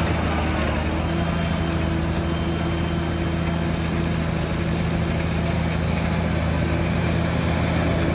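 Heavy earthmoving machine's diesel engine running steadily at an even speed, with no revving or load changes.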